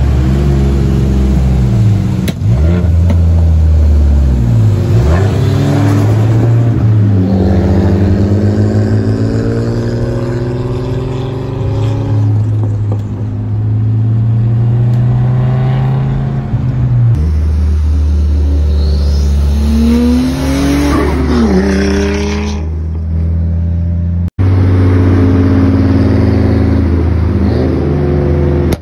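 Nissan Skyline R32 GTS-t's turbocharged RB20 straight-six running through straight pipes, revved up and down repeatedly across several spliced exhaust clips.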